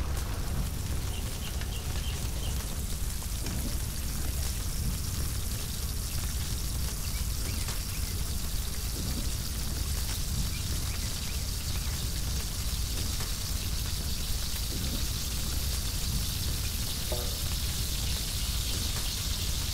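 Boiled chicken pieces frying in oil in a wide pan over a wood fire, a steady sizzle with a metal ladle stirring now and then.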